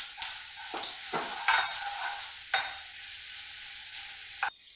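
Ginger-garlic paste sizzling in hot oil with mustard seeds, cumin and curry leaves in a nonstick kadhai, while a steel spoon stirs and scrapes the pan a few times. The sizzle stops abruptly near the end.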